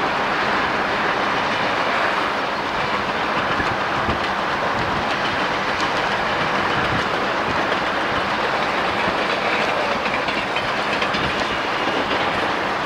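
Freight train of hopper cars and boxcars rolling by: a steady rumble of steel wheels on rail, with the clickety-clack of the cars passing over rail joints.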